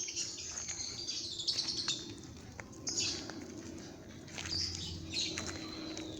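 Small birds chirping, high calls coming again and again, with scattered short clicks among them.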